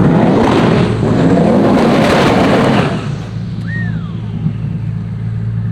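High-horsepower drag car accelerating hard down the strip. It is loud for about three seconds, then drops away as the car pulls off, leaving a steady low hum.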